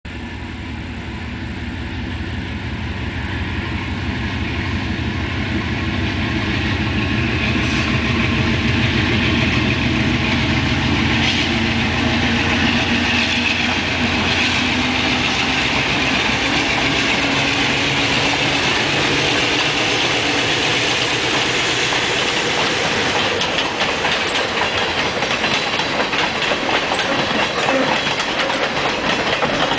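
Diesel locomotive approaching and passing, its engine drone growing louder over the first several seconds and then holding. Passenger coaches follow, their wheels clicking rapidly over the rail joints.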